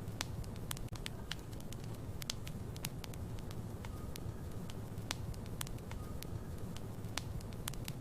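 Wood fire burning in a fireplace: burning logs crackling with frequent, irregular sharp pops over a low, steady rumble of the flames.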